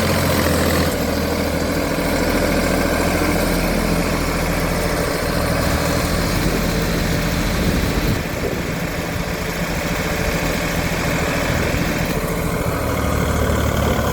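Same Minitaurus 60 tractor's air-cooled diesel engine running steadily, easing off slightly about eight seconds in and picking up again near the end.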